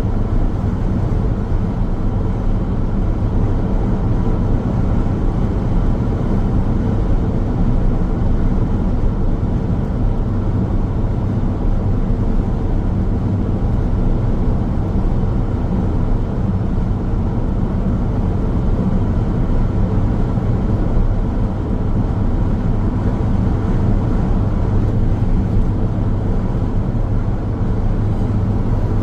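Steady road noise of a car driving: a constant low rumble of tyres and engine with no distinct events.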